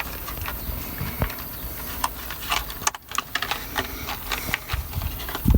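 Hands working with electrical wire and small crimp connectors: scattered irregular clicks and rustles of handling.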